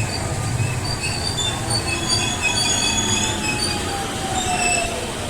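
Electric train running on rails, with scattered high-pitched wheel squeal over a low rumble and a motor whine that slides steadily down in pitch.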